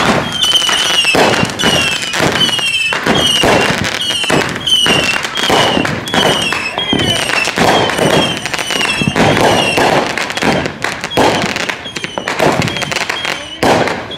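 Consumer aerial fireworks firing and bursting in quick succession: a dense run of bangs and crackling. Over them a short, high chirping tone repeats steadily about twice a second.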